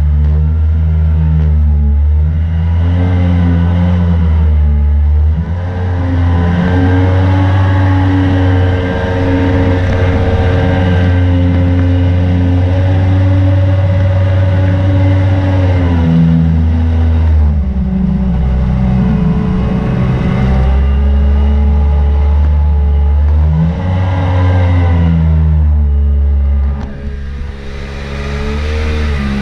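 Mini jet boat's Yamaha 1100 engine running hard, held steady for long stretches, with the engine note dropping and climbing again several times as the throttle is eased and reopened.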